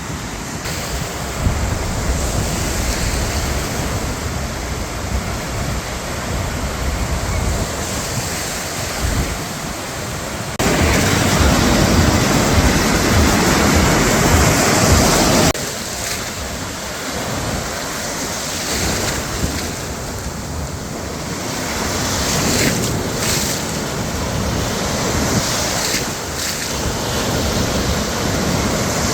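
Sea surf washing on the shore, with wind buffeting the microphone. A louder stretch of surf noise lasting about five seconds starts and stops abruptly near the middle.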